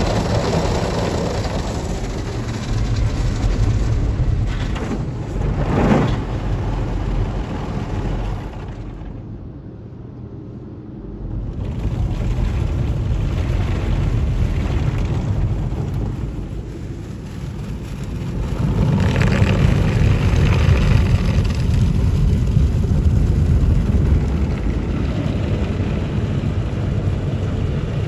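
PDQ Tandem SurfLine in-bay automatic car wash running: a steady rush of spray and machinery. It drops away for a few seconds about nine seconds in, then builds back and grows louder again near nineteen seconds in.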